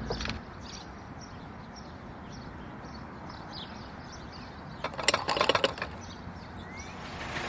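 Outdoor background with faint bird chirps, and a short burst of clattering clicks about five seconds in.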